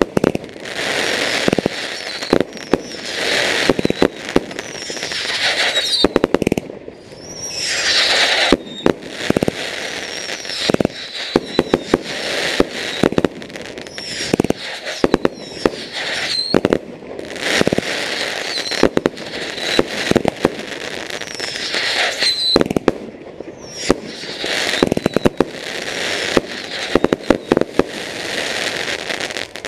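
Fireworks going off in a continuous barrage: a string of rushing, whistling launches one after another, with rapid sharp crackles and bangs throughout.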